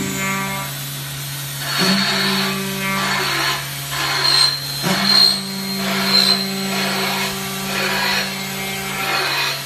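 3-axis CNC milling machine cutting aluminum. A steady motor hum that shifts pitch a few times, under repeated bursts of cutting noise every half second to a second, several with a high whine.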